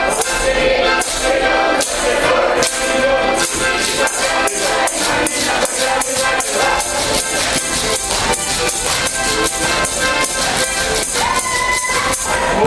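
Live ensemble music with a fast, steady percussion beat, like a tambourine shaken and struck many times a second, over sustained instrument tones and singing.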